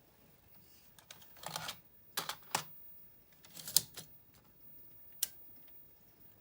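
Sony EV-A 200 Video 8 recorder's mechanism and controls clicking: a series of sharp clicks and short mechanical clatters, the loudest cluster about three and three-quarter seconds in, ending with a single click.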